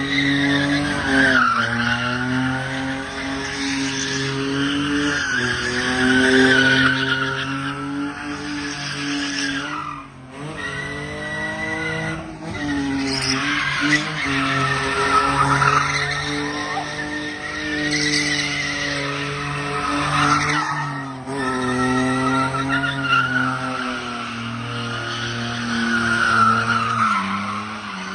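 BMW drift car's engine held at high revs, the pitch rising and falling every few seconds with short drops when the throttle is lifted, while the tyres squeal and skid steadily.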